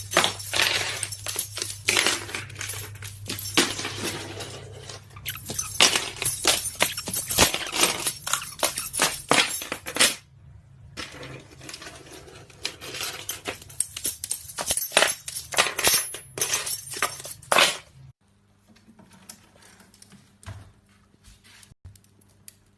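Rapid, dense metallic clinking and jingling, like small hard objects rattled and knocked together, in two long runs with a short pause about ten seconds in; after about eighteen seconds only faint scattered ticks remain.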